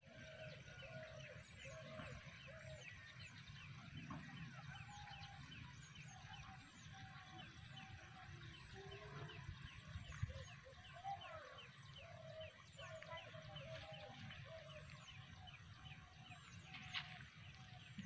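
Faint birds calling: many quick, repeated high chirps, about three or four a second, with short lower calls mixed in. A single sharp click near the end.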